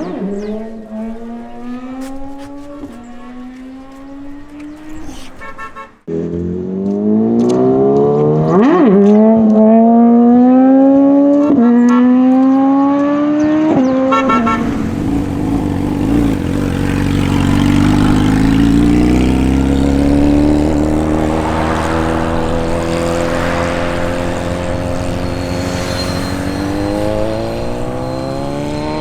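Superbike engines accelerating hard through the gears: the pitch climbs in each gear and drops at each upshift, in several clips cut together. In the second half a steadier, louder high-revving run, climbing again near the end.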